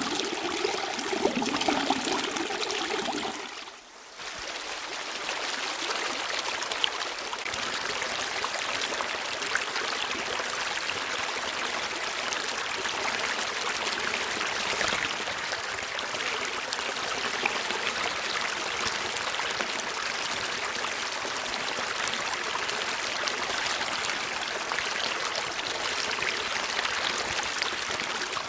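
Running water of a stream, a steady trickling flow. It dips briefly about four seconds in, then carries on with less low rumble.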